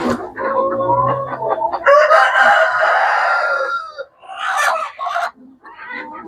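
Local chickens clucking, with a rooster crowing once for about two seconds, starting about two seconds in.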